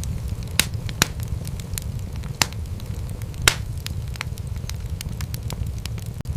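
Wood fire burning, with a steady low rumble and scattered sharp crackles and pops. The loudest pops come about half a second, one second, two and a half seconds and three and a half seconds in.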